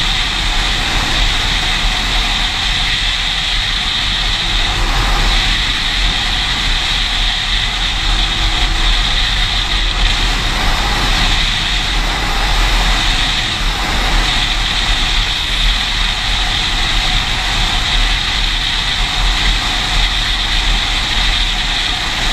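Steady, even mechanical noise of a running vehicle or engine, holding level with no clear revving or pauses.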